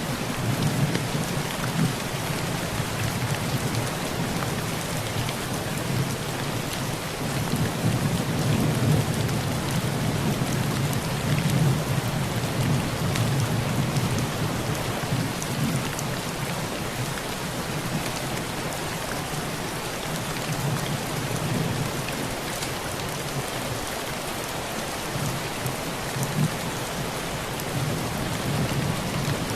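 Heavy rain drumming steadily on a tin roof, with the patter of individual drops on the metal. A low rumble of thunder rolls underneath, swelling strongest through the first half and fading toward the end.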